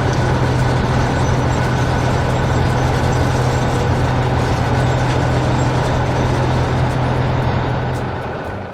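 A heavy vehicle engine running steadily with a low hum, fading out near the end.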